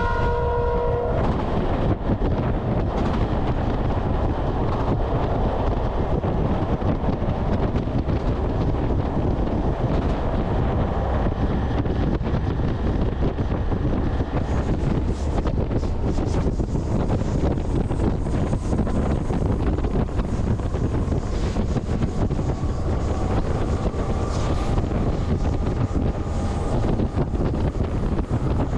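Freight train running along the line: a steady rumble of wheels on rail with wind on the microphone. A locomotive horn blast cuts off about a second in.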